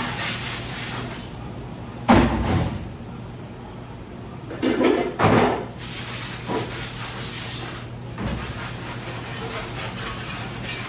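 Steady mechanical hum and hiss, broken by loud clattering knocks about two seconds in, a pair around five seconds, and another near eight seconds.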